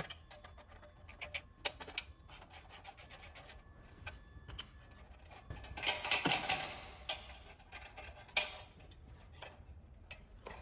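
Workshop tool noise: scattered clicks and clatter of hand tools and fasteners, with a longer rasping scrape about six seconds in and a sharp knock a couple of seconds later.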